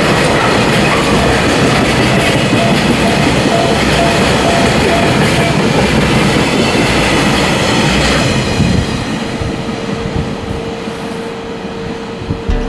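Freight train of oil tank cars rolling past, wheels clacking over the rail joints. The noise drops away about eight and a half seconds in as the last cars go by, leaving a steady hum.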